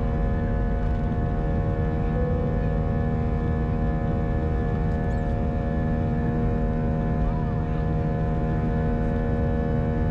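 Airliner cabin noise of an Airbus A319 in flight: a steady low rumble of air and engines with several fixed whining tones from its IAE V2500 turbofans, holding level without change.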